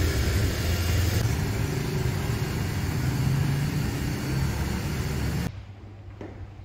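Car engine idling close by, a steady low hum under a hiss of street noise, which cuts off sharply about five and a half seconds in.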